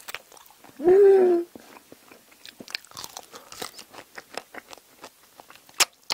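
Close-miked eating sounds: wet chewing and crunching of spicy braised seafood with bean sprouts, heard as many small clicks and smacks. A brief loud vocal sound from the eater comes about a second in, and a sharp click near the end.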